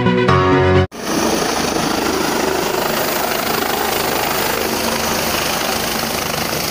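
Music cuts off abruptly about a second in, and the steady rotor and engine noise of a helicopter follows.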